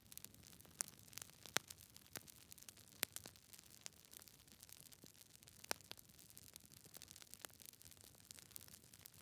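Wood fire in a fireplace crackling: irregular sharp pops and snaps from burning logs over a faint hiss, with the loudest snaps about three seconds and nearly six seconds in.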